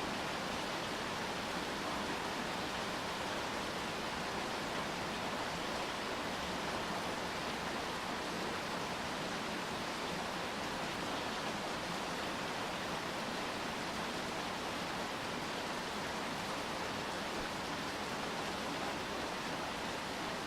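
Steady rain falling, an even hiss of water with no single drops or other events standing out.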